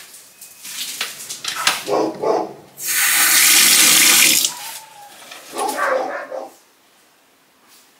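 Water running or pouring steadily for about a second and a half near the middle, with short dog calls just before and just after it.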